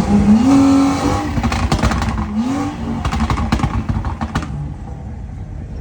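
Car engine revving, climbing in pitch twice, with a rapid run of sharp crackles in the middle before it settles back down.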